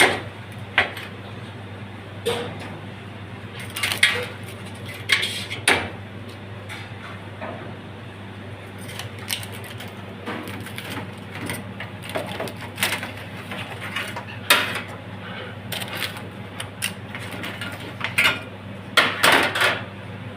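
Kitchen clatter of dishes and utensils being handled: irregular knocks and clinks, over a steady low hum.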